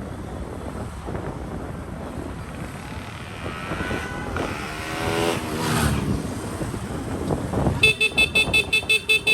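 Motorcycle engine revving, its pitch gliding up and then down, over steady outdoor noise. Near the end a horn sounds in a rapid string of short beeps, about five a second.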